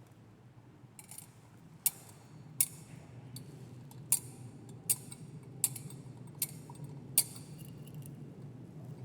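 Censer (thurible) being swung, its metal chains and lid clinking against the bowl: about seven sharp, ringing metallic clinks at an even swinging pace of roughly one every three quarters of a second, over a low steady hum.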